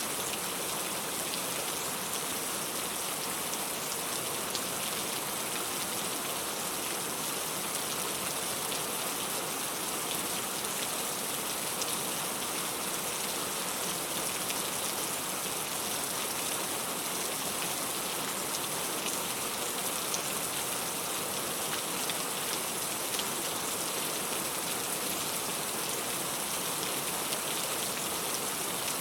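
Steady rain falling, an even hiss with fine drop patter on a surface.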